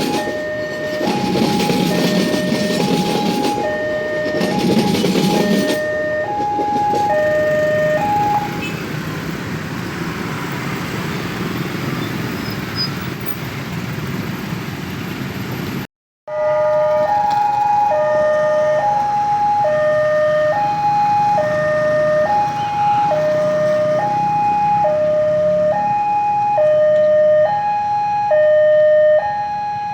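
Railway level-crossing warning alarm sounding a two-tone signal that alternates high and low, switching about every 0.7 seconds, warning that a train is coming. For the first few seconds a passing train's wagons rumble over the rails in a rhythm. The alarm stops about eight seconds in, then sounds again from about halfway and keeps going.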